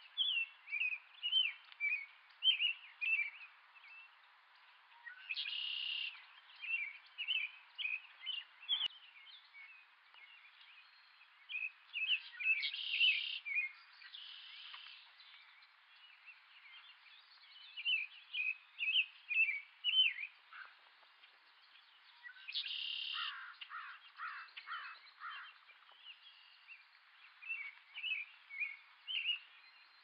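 Birds chirping in quick runs of short, high notes, over and over, with three longer, noisier calls about five, thirteen and twenty-three seconds in.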